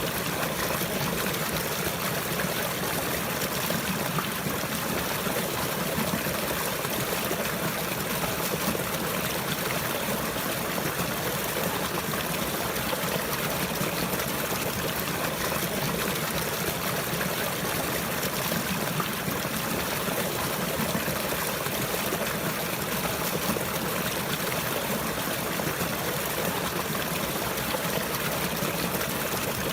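Running water trickling and splashing steadily, like a small stream, with no pauses or changes.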